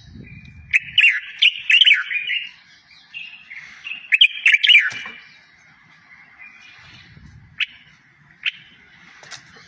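A songbird singing: two quick runs of high chirping notes, then a few single sharp chirps spaced out near the end.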